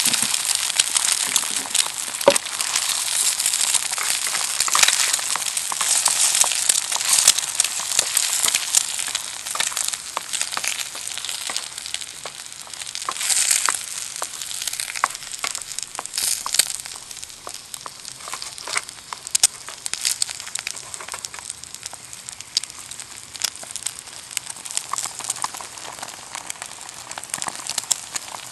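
Campfire crackling and sizzling with many small sharp pops, heavier in the first half and thinning out later.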